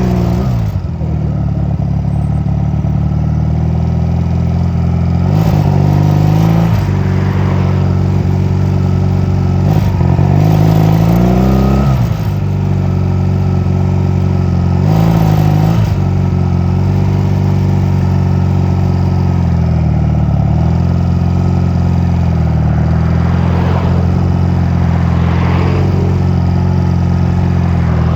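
Honda 250cc motorcycle engine running while riding, mostly at a steady pitch, revving up a few times with the throttle and dropping back between gear changes.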